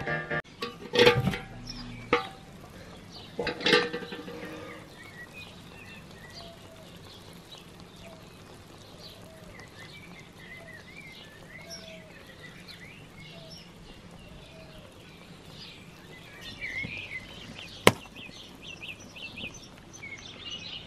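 Birds chirping over quiet outdoor background noise, with two loud knocks about one and four seconds in and a single sharp click near the end.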